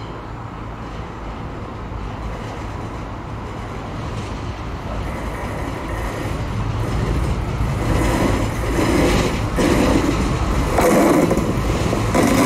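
Class 170 Turbostar diesel multiple unit, two units coupled, approaching and running in past the platform. Its diesel engines and wheels on the rails grow steadily louder, loudest in the last few seconds.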